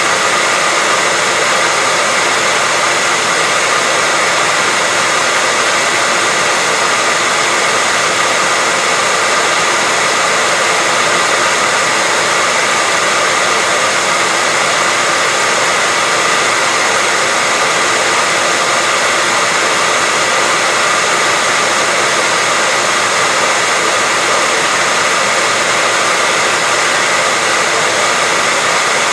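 Hair dryer running steadily: an unchanging rushing whoosh of blown air with a faint motor whine.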